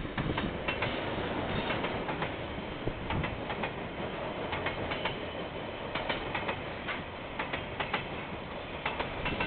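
Freight train of container wagons rolling past: a steady rumble with frequent sharp clicks, often in pairs, as the wheels cross rail joints.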